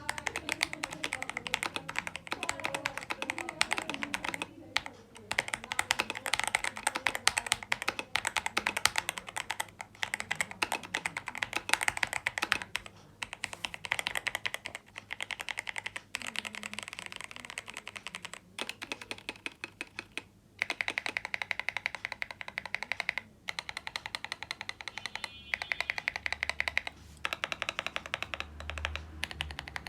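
Tester 68 custom mechanical keyboard with Shimmer XDA keycaps and Gateron G Pro Brown switches being typed on quickly and steadily, a dense run of keystrokes with a creamy sound. The typing stops briefly a few times.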